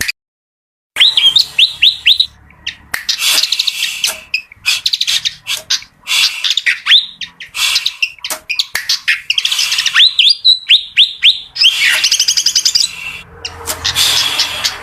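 Fantail (kipasan) singing: phrase after phrase of quick, curving whistled notes mixed with high chattering. The song drops out for under a second right at the start, then runs on in bursts.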